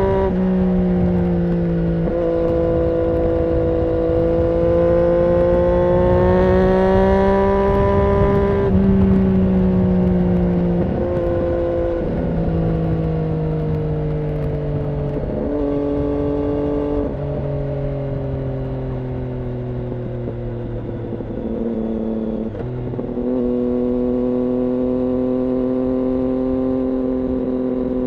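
Triumph Daytona 675's inline three-cylinder engine running through an IXIL aftermarket exhaust, holding steady engine speeds with several sudden steps down in pitch and one step up about 23 seconds in.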